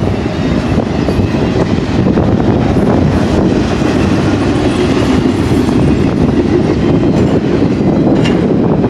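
Double-stack intermodal well cars rolling past: a steady rumble and clatter of steel wheels on the rails.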